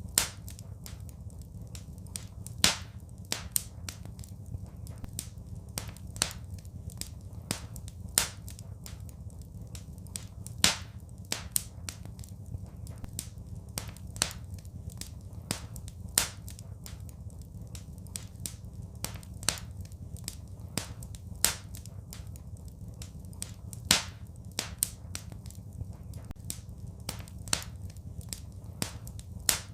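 Wood fire crackling in a fireplace: irregular sharp pops and snaps, several loud ones among many smaller clicks, over a steady low rumble of the flames.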